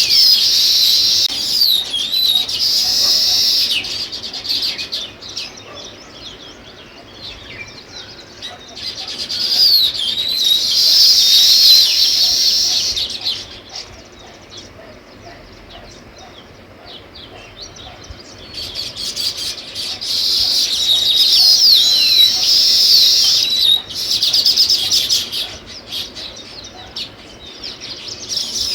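House sparrows chirping in several loud bouts of rapid, overlapping chirps, each lasting a few seconds, with quieter stretches between them.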